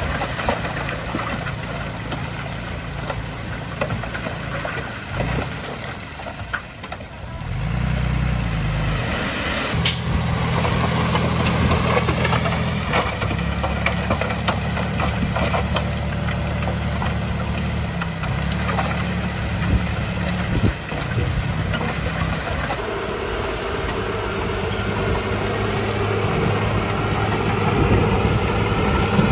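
Heavy diesel engines of earthmoving machinery running steadily. The engine note drops briefly about seven seconds in, then picks up, and shifts again about 23 seconds in.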